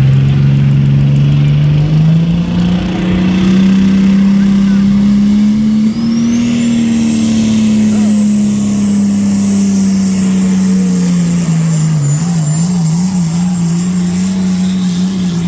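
Pulling tractor's engine running hard at high revs. Its pitch climbs over the first two seconds, peaks about six seconds in, sags slowly and wavers up and down near the end. A high whine sweeps up about six seconds in and then holds.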